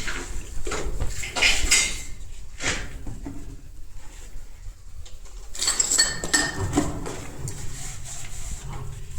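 Metal objects clinking and clattering: scattered knocks with a brief ring, in a cluster at the start and another about six seconds in.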